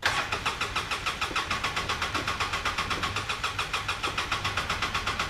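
2005 Polaris Ranger XP 700 EFI engine being cranked by its starter in a start attempt, a steady fast chugging of about eight beats a second that begins suddenly and cuts off near the end without the engine catching. The machine runs rough or won't start.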